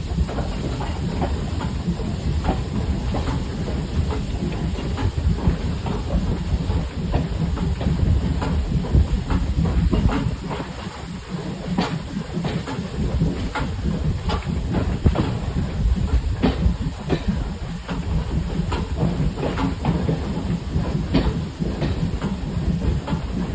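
Railway coach running behind a steam tank locomotive: a steady low rumble of wheels on the track, with frequent irregular clicks and knocks from the wheels and couplings.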